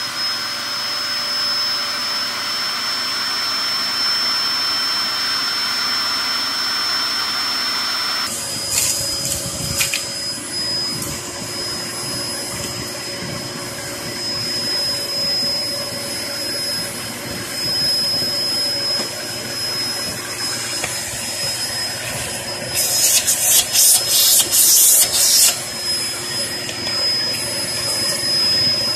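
Hoover Performer Pet HPT16 upright vacuum cleaner running with a steady high motor whine while sucking up fireplace ash. The sound shifts about eight seconds in, and later there are a few seconds of loud rattling crackle as debris is drawn up into the machine.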